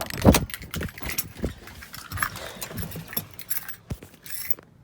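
Handling noise: scattered clicks and rattles, with one louder knock just after the start.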